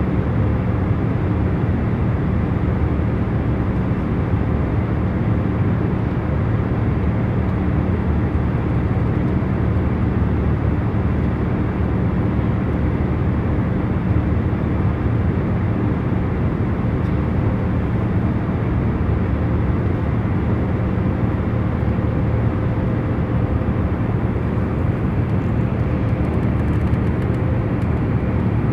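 Airliner cabin noise in cruise flight: a steady low rumble and rush of engine and airflow, with a faint constant hum running through it.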